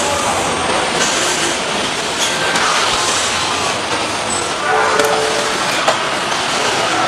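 Assembly-line noise in a motorcycle factory: a loud, steady din of machinery and conveyors, with scattered clanks and a short whining tone about five seconds in.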